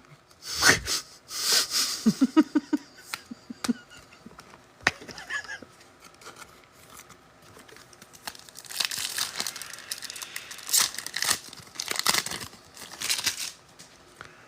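Trading-card pack wrappers being torn open and crinkled, with short handling clicks between. The tearing and crinkling come in a cluster about a second in and a longer run from about 9 to 13 seconds in.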